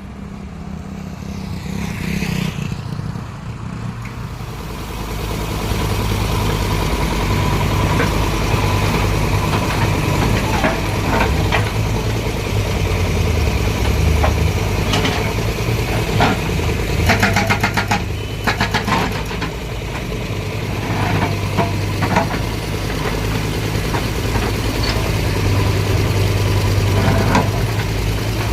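A vehicle's engine running steadily with a low hum, getting louder over the first few seconds. A quick run of rattling clicks comes about two-thirds of the way through.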